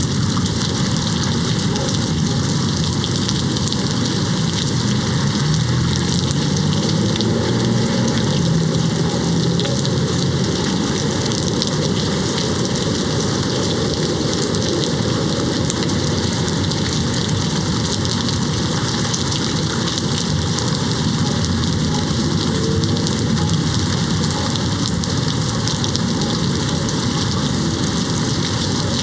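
Steady rain hitting a window: an even, unbroken hiss of drops with no pauses.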